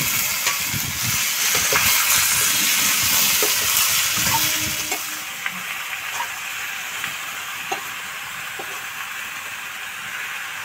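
Hot oil sizzling as wet ash gourd slices hit the kadai, loudest for the first five seconds or so and then settling to a quieter hiss. A metal spoon scrapes and taps against the pan now and then as the pieces are stirred.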